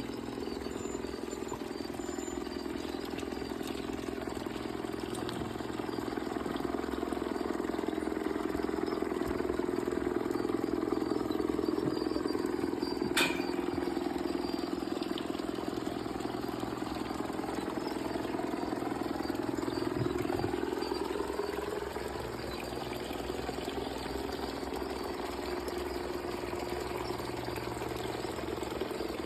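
G-scale model train running on its garden track: the steady whir of its electric motor and gearing, louder through the middle as it passes close and easing off later. A single sharp click about halfway.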